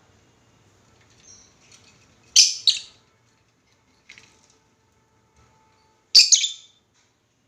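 Pet lovebirds chirping, with two loud, shrill calls about two and a half seconds in and again about six seconds in, and softer chirps between.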